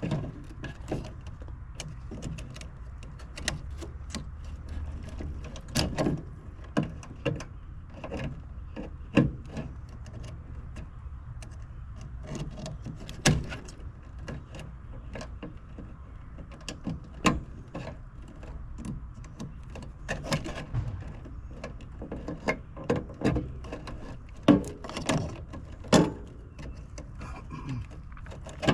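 Irregular clicks and knocks of hands and tools handling parts at an HVAC unit's control board, some sharp and loud, over a steady low hum.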